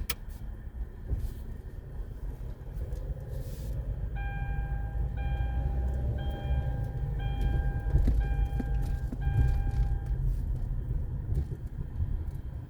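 Car wash tunnel machinery running with a heavy, steady low rumble. From about four to ten seconds in, an electronic beeper sounds a string of beeps of uneven length with short gaps.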